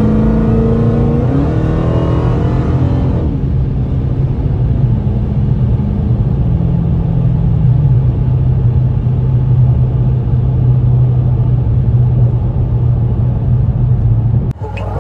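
Dodge Challenger SRT Hellcat Redeye's supercharged 6.2-litre HEMI V8 heard from inside the cabin, accelerating with rising pitch for about three seconds and then holding a steady drone at highway speed. It cuts off abruptly near the end.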